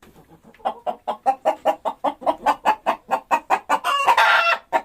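Hen clucking in a rapid, even run of about five clucks a second, ending in a louder, longer squawk near the end.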